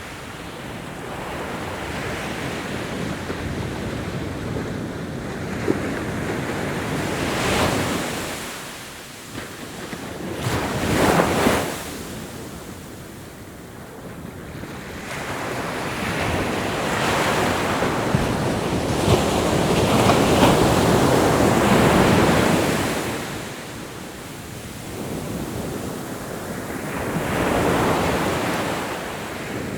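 Ocean waves breaking and washing on a shore, in repeated surges that swell and fade every few seconds, the longest about midway through.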